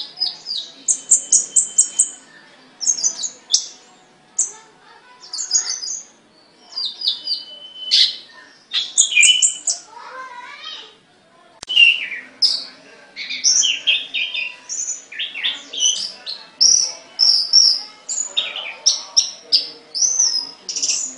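Caged songbird singing a long, varied song of short high chirps, trills and whistles with brief pauses.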